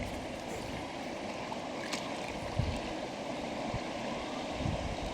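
Steady rush of flowing river water, with a few faint low thuds.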